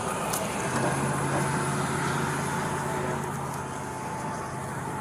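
Motor vehicle noise at the roadside: a steady low engine hum over road noise, swelling about a second in and easing off toward the end.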